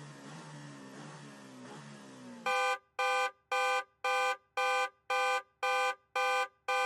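Soft background music, then from about two and a half seconds in, a loud electronic alarm-like buzzer beeping steadily about twice a second.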